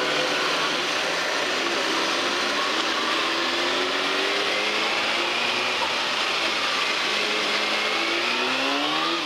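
Kawasaki Ninja ZX-6R sport bike under way on its Hotbodies MGP Growler slip-on exhaust, with heavy wind rush over the helmet microphone. The engine note sinks over the middle, then climbs steeply as the bike accelerates near the end, and cuts off abruptly.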